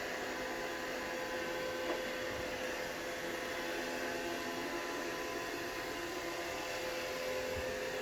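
Roomba robot vacuum running, a steady motor hum and whine over even hissing noise, with a faint tap about two seconds in.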